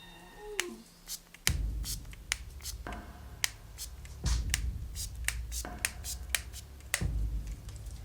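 Irregular sharp clicks and taps, a few a second, over a low steady rumble that sets in about a second and a half in.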